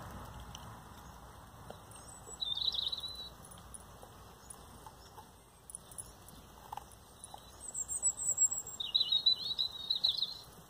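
Small songbirds twittering in short bursts of high, quick chirps: one about two and a half seconds in, a higher one around eight seconds, and the loudest from about nine to ten seconds. A few faint clicks come in between.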